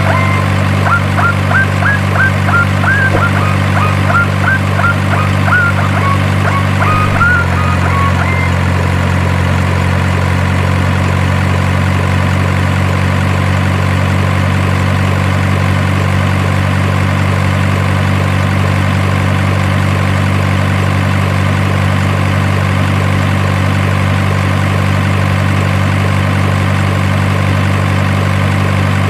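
Truck engine idling steadily, its note changing slightly about seven seconds in. Short high chirps sound over it during the first eight seconds.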